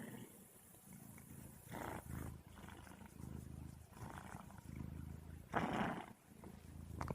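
A cat purring in low rumbles that come and go, with a short louder noise about two seconds in and another near the end.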